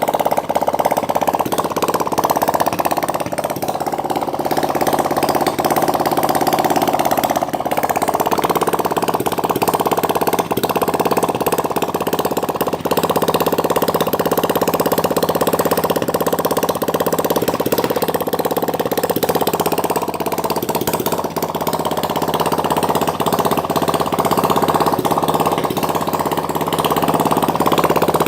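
A 175cc water-cooled engine running steadily, its note shifting slightly about seven or eight seconds in.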